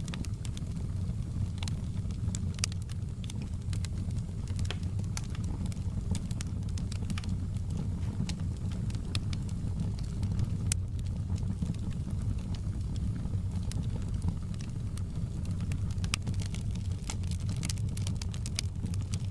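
Wood fire burning in a fireplace: a steady low rumble of flames with many sharp crackles and pops at irregular moments.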